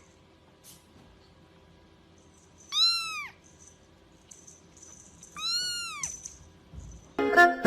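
A domestic cat meowing twice, two arched calls that rise and fall in pitch, each about half a second long and about two and a half seconds apart. Music starts near the end.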